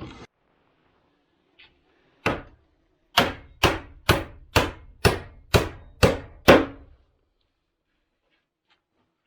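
A hammer striking wood: a single blow, then a steady run of eight blows at about two a second.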